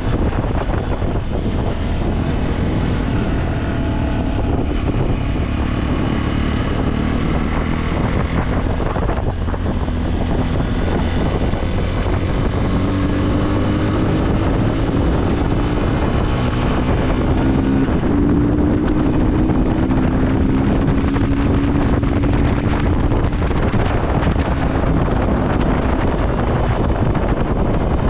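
Motorcycle engine running under way, its note rising and falling with speed, under heavy wind noise buffeting the microphone.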